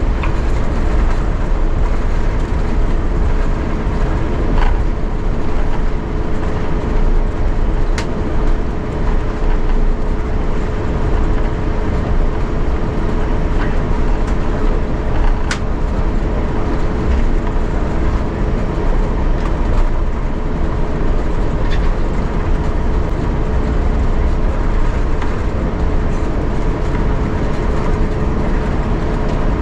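Steady cabin noise inside an Airbus A350-900 rolling on the ground after landing: a low rumble with a constant mid-pitched hum, and a couple of faint clicks.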